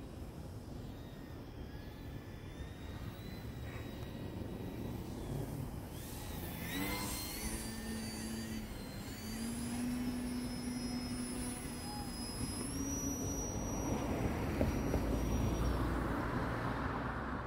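Electric motor and propeller of an E-flite Eratix flat-foam RC plane whining in flight. Its pitch rises with throttle about seven seconds in, steps higher a few seconds later, then drops away near the end. A low rumbling noise builds underneath toward the end.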